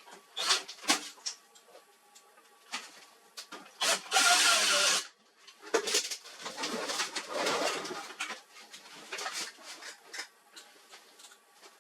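Clicks, knocks and rattling of laser printer parts being handled, with a loud whirring burst lasting about a second, about four seconds in.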